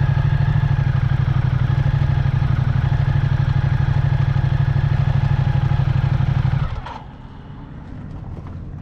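A vehicle engine running steadily with a fast, even firing pulse, then shut off abruptly about seven seconds in, leaving a much quieter background.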